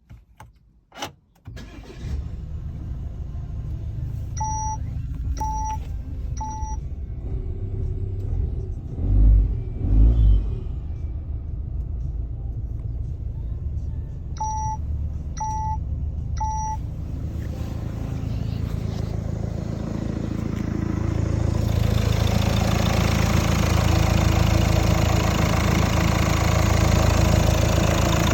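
Citroën C4 SpaceTourer 1.5 HDi four-cylinder diesel engine starting after a few clicks and then running at idle. A three-beep chime sounds twice. Two heavy low thumps come about halfway through, and the engine sound grows louder and fuller near the end.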